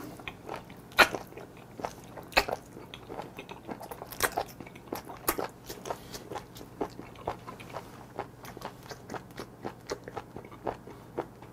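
Close-miked chewing of raw live octopus (sannakji): an irregular run of sharp mouth clicks, loudest in the first five seconds and then smaller and more frequent.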